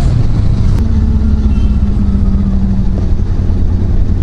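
Kawasaki Versys 650 parallel-twin engine running steadily while the motorcycle is ridden, a continuous low hum with a steady low tone that comes in about a second in.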